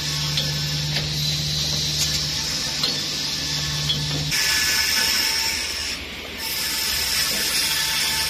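Multi-blade circular rip saw machine running with a steady hum and sharp clicks about once a second. About four seconds in, a louder high hissing whine sets in as the blades cut timber; it dips briefly about six seconds in, then comes back.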